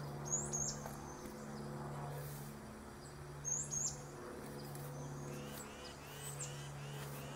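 Small birds chirping: short high calls near the start and again about halfway, then a run of repeated short notes, about four a second, toward the end. A steady low hum runs underneath.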